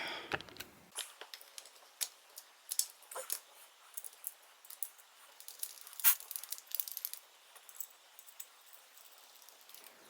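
Irregular light clicks and clinks of small metal carburetor parts and choke linkage being handled and fitted, with a sharper click about six seconds in.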